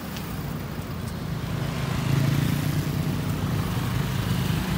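Steady engine hum that grows louder about two seconds in.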